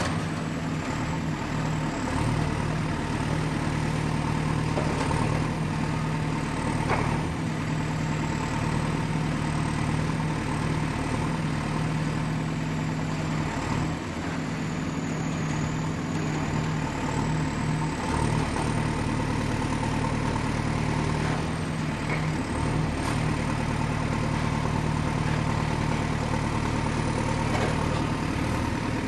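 Excavator's diesel engine running steadily at a low, even speed, with a few faint knocks.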